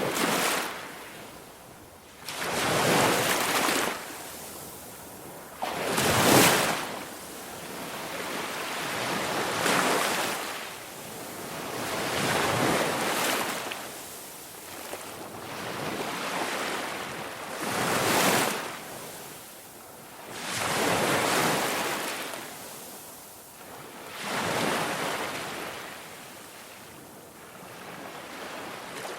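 Ocean surf: waves breaking and washing in, one swell of rushing water about every three seconds, rising and falling.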